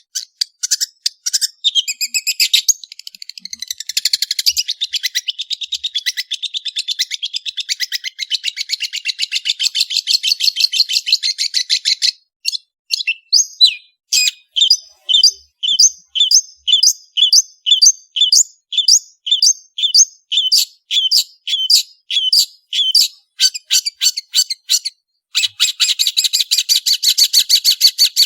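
Long-tailed shrike (cendet) in full song: fast chattering runs of high notes, with a slower stretch of evenly repeated notes, about two a second, in the middle.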